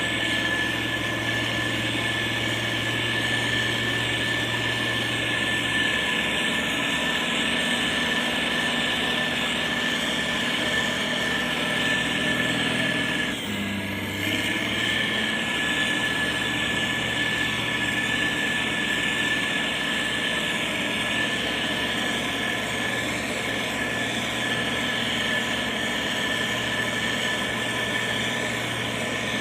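Heavy diesel road-construction machinery running steadily, a low engine drone with a constant high whine over it. The engine note shifts briefly about halfway through.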